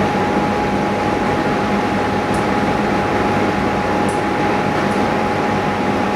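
Steady machine noise: a continuous rushing hum with one constant tone through it, with a few faint light ticks.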